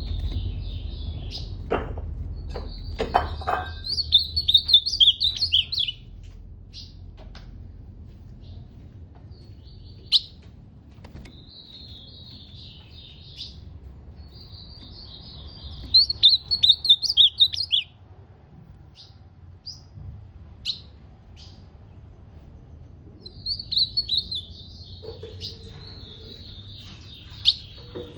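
Ultramarine grosbeak (azulão) singing: repeated warbling song phrases of a few seconds each, with pauses between them. A few short knocks sound between the first two phrases.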